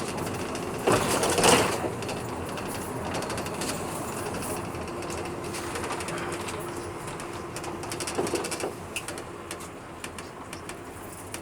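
Inside a PAZ bus on the move: steady engine and road noise with rattling from the body, a louder knock or jolt about a second in, and a faint steady whine for a few seconds in the middle.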